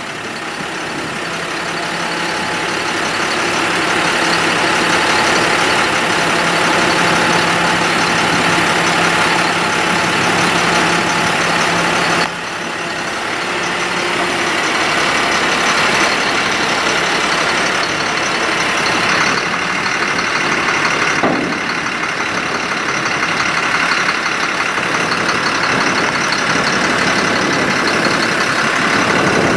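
Ford F-750 truck engine running with its PTO-driven hydraulics working the dump box, raising and lowering it. The sound builds over the first few seconds, drops suddenly about twelve seconds in, then builds again, with another change later on.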